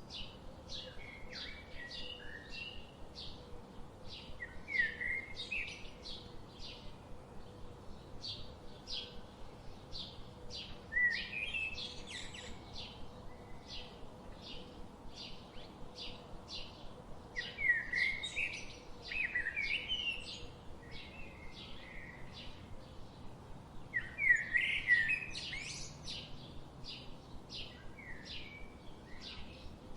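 Songbirds in a forest: one keeps up a steady series of short, high chirps, two or three a second, while louder warbling song phrases break in about four times.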